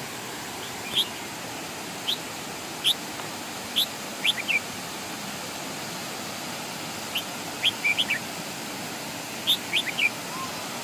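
Sharp, high bird chirps, some single and some in quick clusters of two or three, at irregular intervals over the steady rush of a waterfall.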